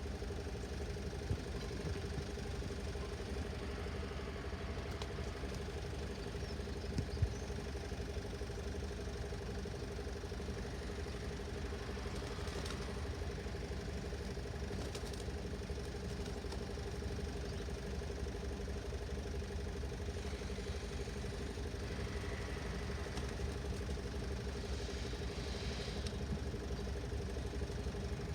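An engine idling steadily, with a constant hum and a low rumble, and a couple of faint clicks.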